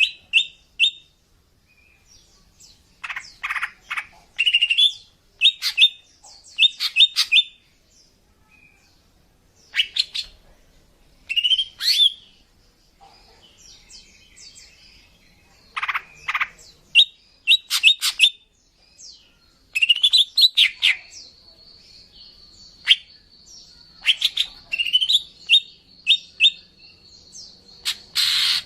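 Female cucak ijo (green leafbird) calling, the call used to lure males: clusters of short chirps and quick rising notes with pauses between them. A thin, steady high tone runs under the calls through the last third.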